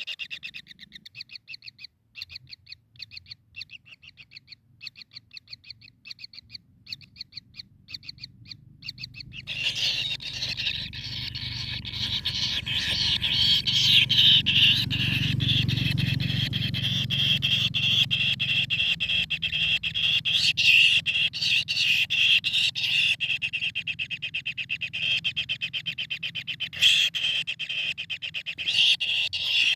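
A kingfisher calling: a string of separate high, sharp notes, then from about ten seconds in a fast, unbroken high-pitched chatter that keeps going.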